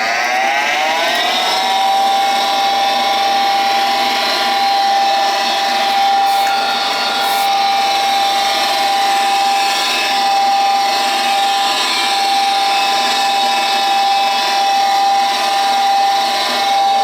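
York 90+ gas furnace's inducer (draft) motor spinning up with a rising whine that levels off about a second and a half in, then running steadily at speed. This is the start of a new ignition attempt after resetting an igniter lockout, before the hot-surface igniter is powered.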